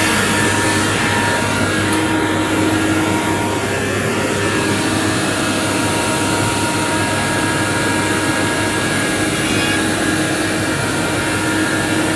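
Asphalt paver's engine and machinery running steadily, a constant mechanical drone with several steady held tones over dense noise.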